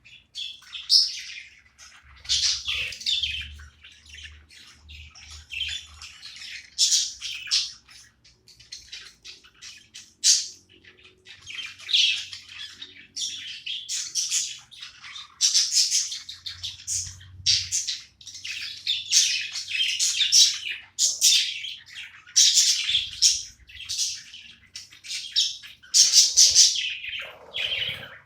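Budgerigars chattering: a busy string of short, high chirps.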